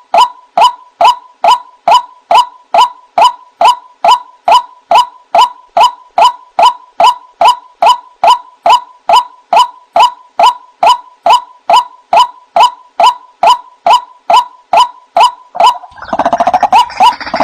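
White-breasted waterhen (ruak-ruak) giving its monotonous repeated "wak" call, short notes about three a second, each pitched near 1 kHz and dipping slightly. Near the end a harsher, busier stretch of overlapping croaking calls takes over.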